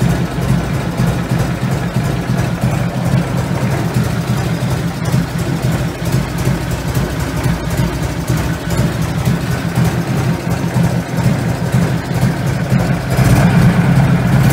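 Harley-Davidson Shovelhead V-twin idling steadily at about 1,000 rpm, set back to its normal ignition timing, so it runs without the loping 'three-beat' (sanbyoshi) rhythm, at an air-fuel ratio of about 11. It gets a little louder near the end.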